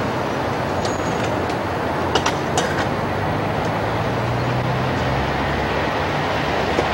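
Train approaching along the track from a distance: a steady rumble with a few sharp clicks in the first three seconds and a low hum building from about three seconds in.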